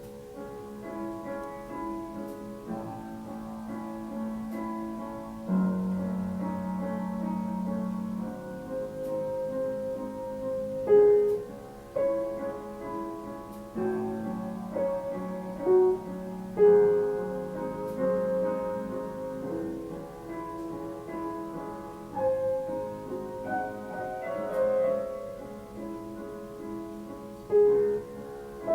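Piano music: a slow run of held notes and chords, some struck notes standing out sharply.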